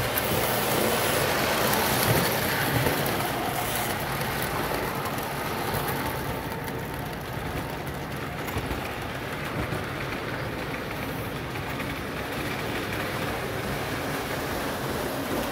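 Lionel FM Trainmaster model locomotive running on three-rail track, its electric motor and wheels making a steady rolling noise. The noise is a little louder in the first few seconds, then settles.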